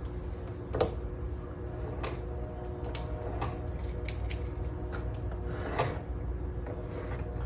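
A few light clicks and taps from parts being handled and positioned against marks, spaced roughly a second apart, over a steady low hum.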